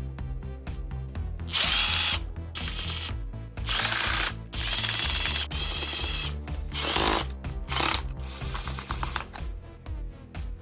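Cordless drill motor run in about six short bursts of whirring, some brief and some longer, between roughly 1.5 and 8 seconds, over background music.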